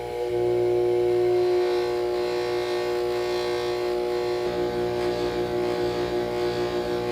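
Small electric motor running at a steady speed, a constant hum with a few steady tones. It starts and stops abruptly.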